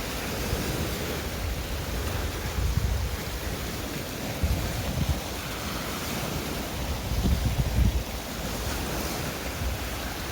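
Sea waves washing onto the shore, with gusts of wind buffeting the microphone now and then.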